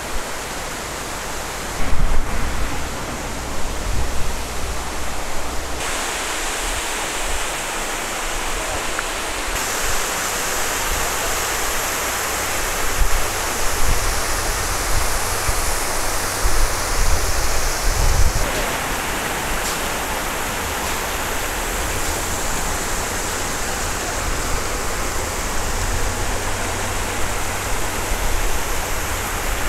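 Waterfall: a steady rush of falling water that shifts in tone a few times, about six seconds in, ten seconds in and eighteen seconds in.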